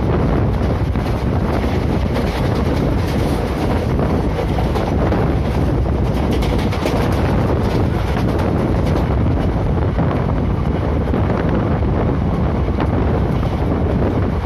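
Strong wind buffeting the phone's microphone from a fast-moving express passenger train, over the steady rumble of its wheels on the rails.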